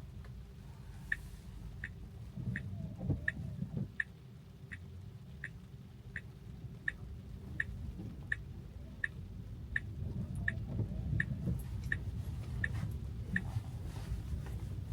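Tesla's turn-signal indicator clicking in the cabin, short even ticks about one and a half times a second. It starts about a second in and stops near the end, over a low rumble of tyres on the wet road.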